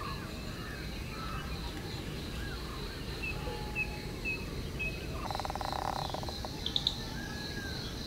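Birds chirping with short, scattered calls over a steady low outdoor background, with a brief rapid buzzing trill about five seconds in.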